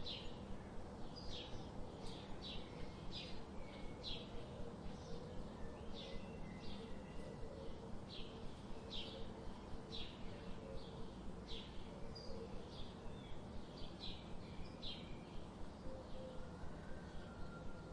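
Birds chirping: short, quick falling chirps repeated about once or twice a second over a steady low background noise, with a longer call near the end.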